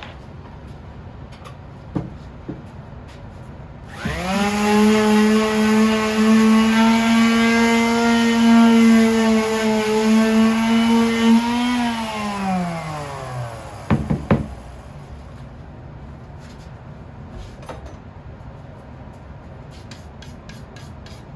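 Electric sander switched on and running at a steady whine for about eight seconds, then switched off and winding down with falling pitch. A few sharp knocks follow as it is set down.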